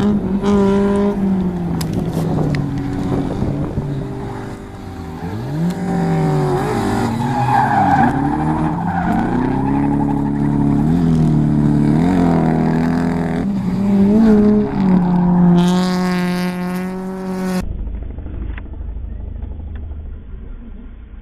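A drift truck's 1UZ-FE V8 revving up and down repeatedly while the tyres squeal through slides. About three-quarters of the way in, the sound abruptly becomes duller and quieter.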